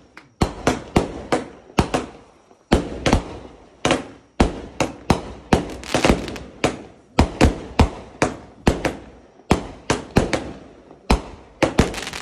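Consumer fireworks going off: a rapid, irregular string of sharp bangs, two or three a second, each trailing off briefly.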